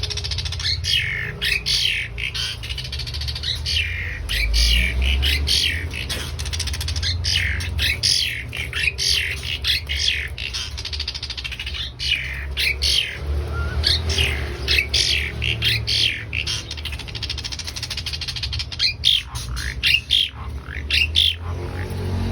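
Asian pied starling singing continuously: a fast, unbroken run of harsh squawks, chattering and whistled notes, many of them sweeping in pitch.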